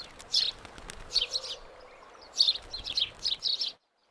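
Birds chirping: several clusters of short, high, quick calls over a faint steady hiss, which cut off suddenly near the end.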